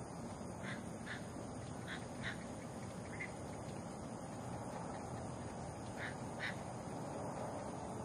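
A bird calling with short calls, mostly in pairs: two about a second in, two near two seconds, one near three seconds and two near six seconds, over a steady background hiss.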